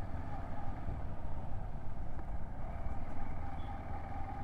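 Hero XPulse 200 motorcycle's single-cylinder engine running steadily while riding, heard with a continuous low rumble of engine and road noise.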